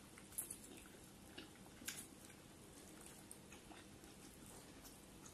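Faint chewing and mouth sounds of two people eating steamed momos quickly, with a few soft clicks, the clearest about two seconds in, over near silence.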